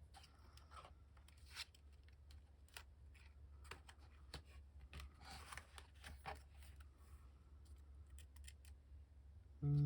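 Quiet handling of paper and cardstock: scattered soft rustles and light taps as sheets are picked up, shuffled and set down, over a low steady hum.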